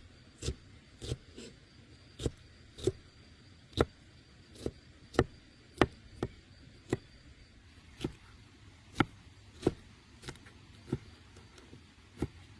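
Knife chopping on a wooden cutting board: separate sharp knocks, about one and a half a second at a slightly uneven pace.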